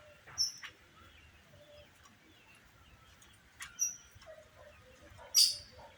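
Hybrid trinca-ferro (green-winged saltator) × rey del bosque (black-backed grosbeak) songbird giving a few short, high chips, the loudest about five seconds in.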